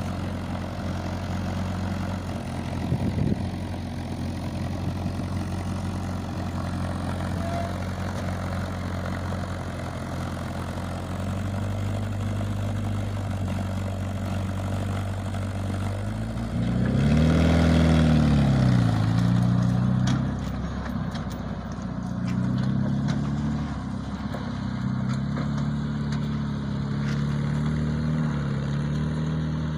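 Homemade tractor's engine idling steadily, then revved up and back down about halfway through, with a few smaller changes in engine speed after that.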